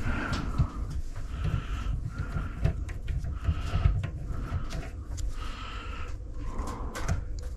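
A thread tap being turned by hand in aluminum, giving a short squeak about every three-quarters of a second, with small clicks between.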